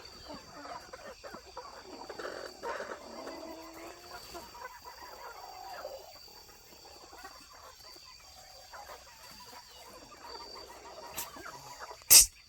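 Roosting chickens making low clucks and murmuring calls that thin out after the first few seconds, over a steady faint high whine. A single sharp knock near the end is the loudest sound.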